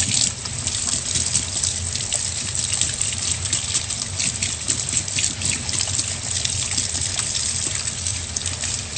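Water running steadily from a tap into a sink while someone washes their hands.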